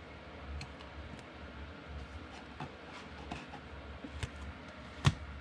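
Trading cards being handled and flipped through, with soft rustles and light ticks and one sharp click about five seconds in. A low steady hum runs underneath.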